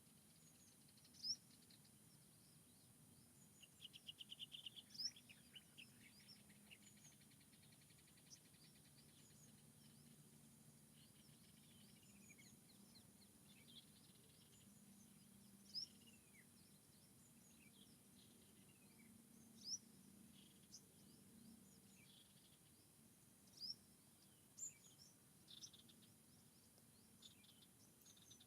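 Several small songbirds calling in a forest: scattered short chirps and downward-sliding whistles, with a fast trill about four seconds in, over a faint low hum.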